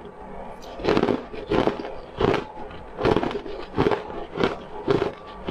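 Close-up chewing of crunchy food, a steady run of crunches about every two-thirds of a second, starting about a second in.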